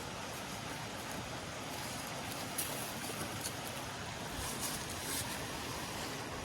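Steady rushing outdoor noise, with a few faint, sharp crackles from about halfway in.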